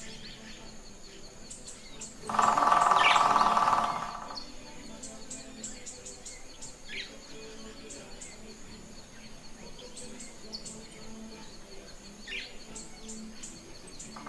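Green-barred woodpecker giving one loud, fast rattling call about two seconds in, lasting under two seconds. Around it are scattered short high chirps from small birds and a steady thin high tone from insects.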